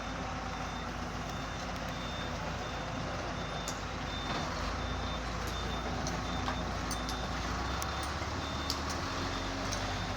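A vehicle reversing alarm beeping in a steady repeating pattern over the low, steady running of heavy diesel machinery, with a few sharp clicks and knocks.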